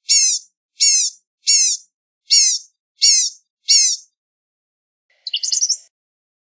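Blue-gray gnatcatcher calling: six high, falling notes of about half a second each, repeated about every three-quarters of a second, then a quick jumble of short notes about five seconds in.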